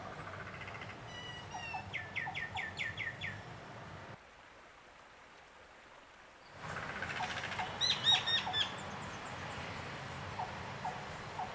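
Bird chirping in quick runs of short, falling notes, twice, over a steady low rumble. The whole sound drops abruptly quieter for a couple of seconds in the middle.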